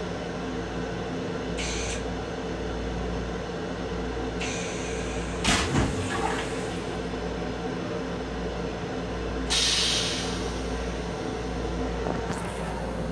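Steady hum of an M7 electric railcar heard from inside its small restroom. A sharp clunk comes about halfway through, and short hisses break in, the loudest about two-thirds of the way through.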